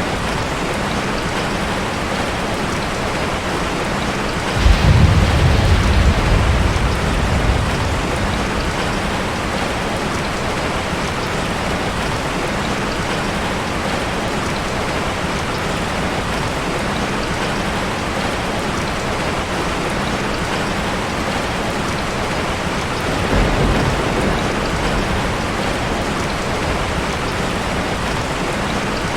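Heavy rain falling steadily, with thunder: a sudden low rumble about five seconds in that dies away over a few seconds, and a fainter rumble near the end.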